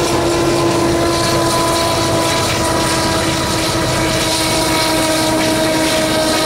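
CSX freight train of covered hopper cars rolling past: a steady rumble of wheels on rail with a steady droning tone over it.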